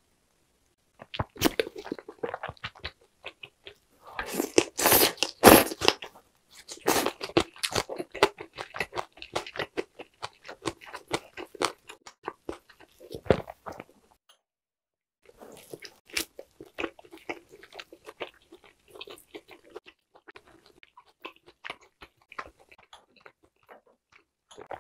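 A person biting and chewing grilled lamb: a dense run of quick mouth clicks, loudest about four to six seconds in. The chewing stops briefly about fourteen seconds in, then goes on more quietly.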